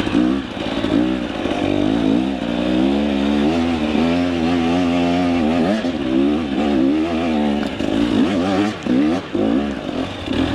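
Two-stroke KTM 300 EXC enduro dirt bike engine revving up and down with the throttle, its pitch rising and falling. In the last couple of seconds the revs turn into quicker, choppier blips.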